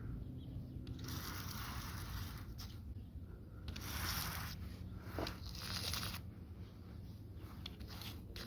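Faint, repeated breaths close to the microphone, a soft noisy swell every second or two.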